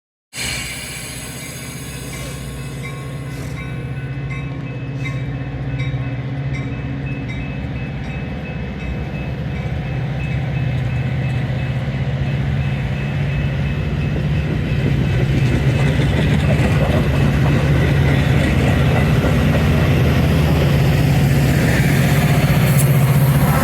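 Train with a diesel locomotive running, its low engine drone growing steadily louder as the train draws nearer.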